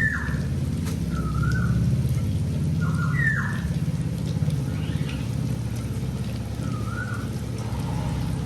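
Short whistled calls, each holding a note and then gliding up and down in pitch, repeat about every two seconds over a steady low rumble.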